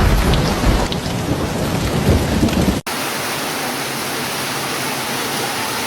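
Heavy rain with a deep rolling thunder rumble. About three seconds in it cuts off abruptly and a steady, even rain hiss without the rumble takes over.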